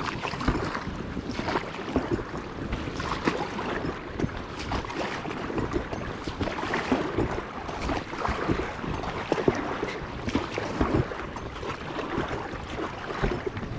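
Irregular splashing and knocking with wind noise on the microphone, the sound of a small boat out on the water.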